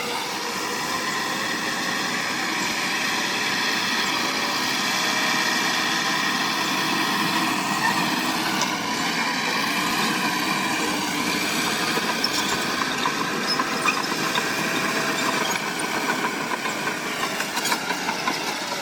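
Diesel engine of heavy earthmoving machinery running steadily, with scattered light clicks and clanks in the second half.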